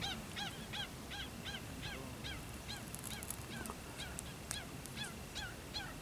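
A bird's alarm calls: a rapid series of short yelping notes, about three a second, thinning out and fading later on. The bird is mobbing people near its nest.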